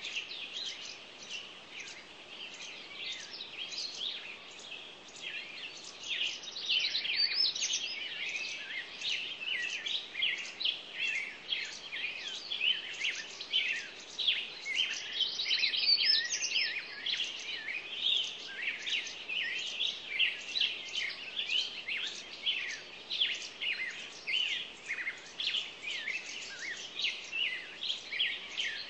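Many small birds chirping and calling at once: a dense, continuous chatter of short high calls that grows louder about six seconds in.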